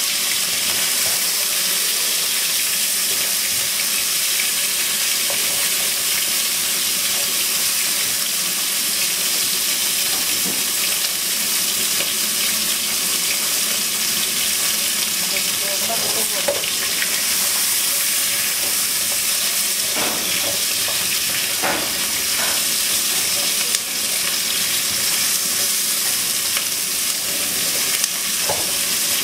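Chicken wings and onions frying in a pan, a steady sizzle with a few light knocks of stirring.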